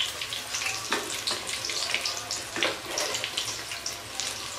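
Batter-coated bread pakoras and samosas sizzling in hot oil: a steady hiss full of small crackling pops, with two soft knocks about one and two and a half seconds in as the pieces are turned over.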